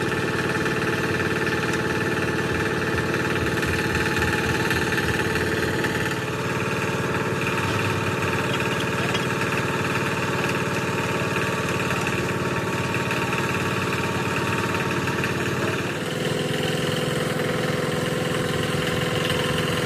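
An engine running steadily at idle, its tone shifting slightly about six seconds in and again about sixteen seconds in.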